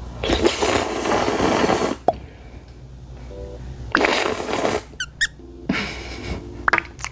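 A person slurping noodles in three long, noisy draws, with a few short, high squeaks about five seconds in.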